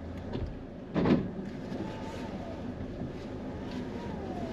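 Car's engine humming low at crawling speed, heard from inside the cabin, with a short thump about a second in.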